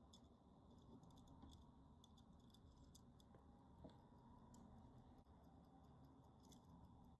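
Faint ticking and small sharp clicks from a wound, running Tudor caliber 59 (FHF 30) wristwatch movement. The clicks are irregular at first and settle into a steady quick tick near the end.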